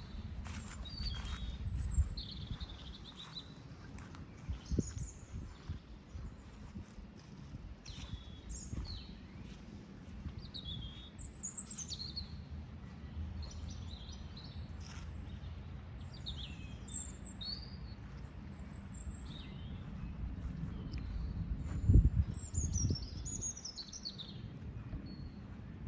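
Small birds chirping and calling in many short, high notes throughout, over a low rumble, with a few dull thumps, the loudest about three-quarters of the way through.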